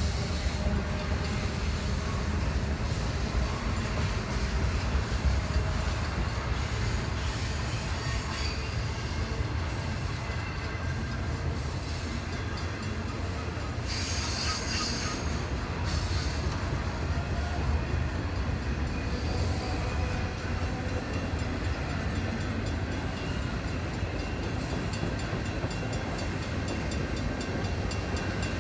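Freight train rolling past with a steady heavy rumble of wheels on rail, and a brief high wheel screech about halfway through.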